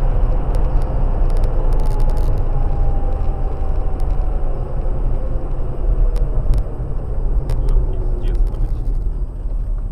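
A car driving, with a steady low rumble of engine and road noise and a faint tone slowly falling in pitch.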